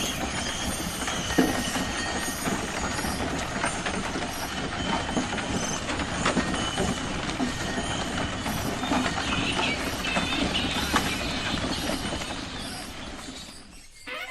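Sound effect of a horse-drawn cart or carriage on the move: a steady clatter of hooves and wheels that fades out near the end.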